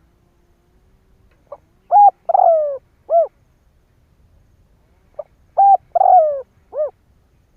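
Spotted dove cooing: two phrases of its song, each a short lead note, a coo, a longer coo that falls in pitch, and a short final coo.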